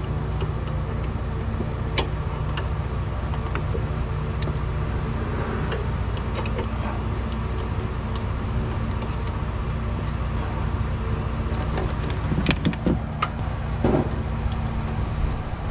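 Nissan Livina's HR16DE 1.6-litre four-cylinder engine running steadily at a fixed speed, with a few sharp clicks and knocks near the end.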